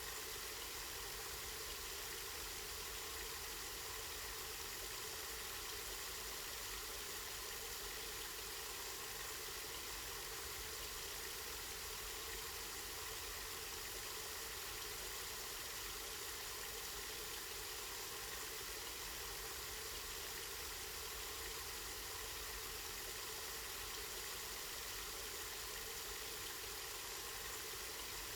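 Spring water running steadily: an even, unbroken hiss of flowing water.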